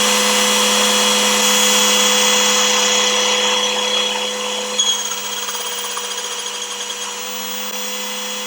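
A loud, steady mechanical whir with a hiss, like a small electric motor running, its level easing slightly about five seconds in.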